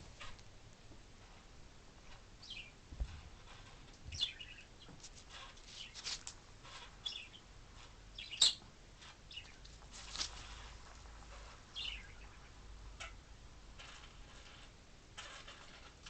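Faint bird chirps, a handful of short sweeping calls spaced a few seconds apart, with a few light clicks in between.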